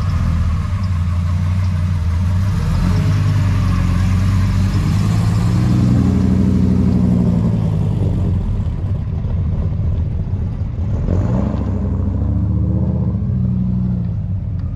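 A vehicle engine running, its pitch rising and falling as it is revved or driven around the middle and again near the end.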